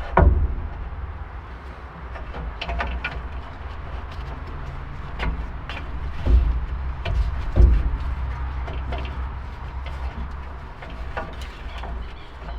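A few scattered knocks and clicks over a steady low rumble, from hand work on the Chevrolet C10's valve cover gasket.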